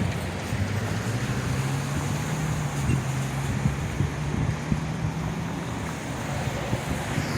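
A steady low engine hum under wind noise on the microphone.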